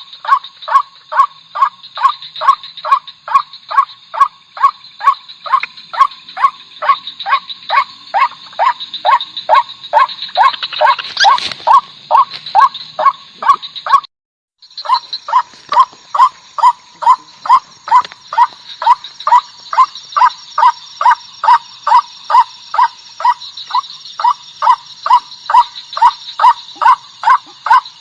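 White-breasted waterhen (ruak-ruak), female lure call: a fast, even series of short, upward-hooked notes at about two a second, over a steady high-pitched buzz. The notes break off briefly about halfway through.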